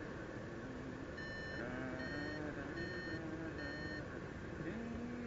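Flight variometer beeping on a paraglider: four short beeps of the same pitch, evenly spaced, the interrupted tone a vario gives in rising air, over steady wind noise.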